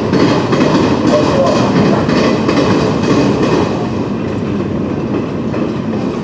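Train rolling past, its wheels clacking over rail joints under a steady rumble.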